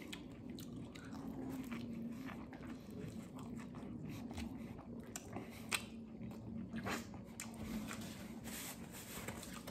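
A man chewing a mouthful of vegetarian sub sandwich on wheat bread: quiet wet chewing with scattered small mouth clicks.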